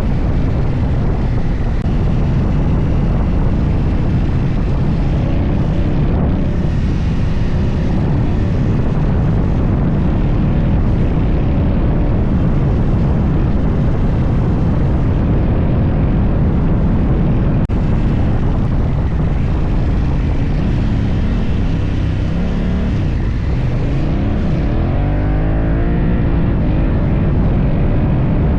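Adventure motorcycle riding on the move: engine running steadily with wind and tyre noise. Its pitch rises and falls a few times near the end as the revs change.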